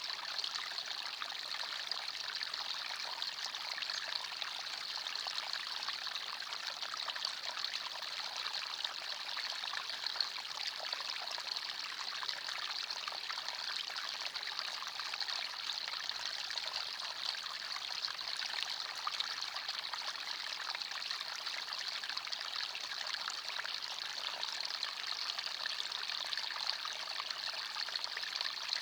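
Forest stream flowing and trickling over stones: a steady, unbroken rush of water.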